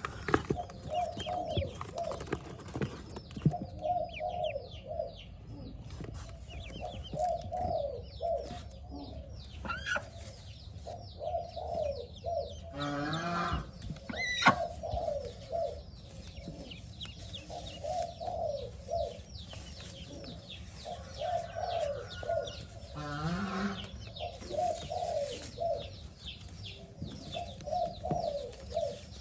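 Pekin ducklings peeping in quick, high calls. Short groups of lower bird calls come in every second or two, and there are a couple of longer, louder calls partway through.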